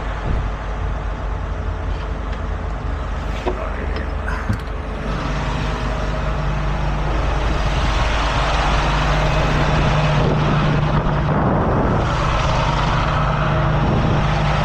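Heavy truck engine running steadily, with a few light metallic clicks. About five seconds in, a louder steady rushing hiss joins it and holds.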